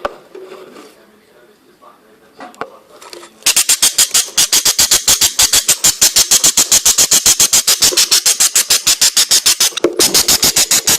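Budgerigar chick begging: a loud, rapid, perfectly even run of high-pitched calls that starts suddenly about three and a half seconds in, after a few seconds of faint chatter.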